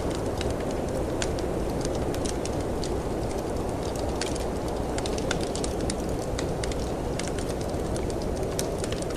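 Wood fire crackling with many small sharp pops at an irregular pace, over a steady low rush of snowstorm wind.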